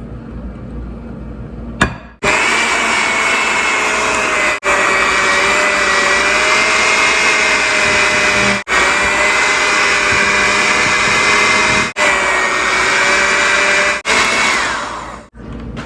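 Electric hand mixer beating cake batter at a steady whine. It starts about two seconds in, runs in several stretches with brief breaks, and winds down in pitch near the end.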